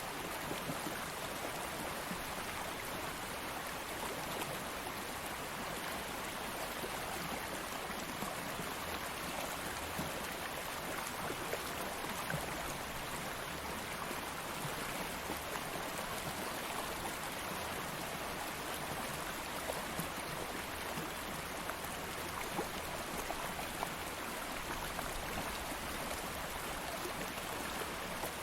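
Stream water flowing steadily over rocks, a continuous rushing and babbling with fine splashing detail.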